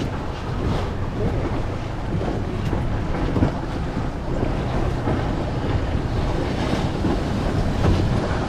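Boat running at speed on open sea: a steady engine rumble mixed with water rushing past the hull and wind buffeting the microphone.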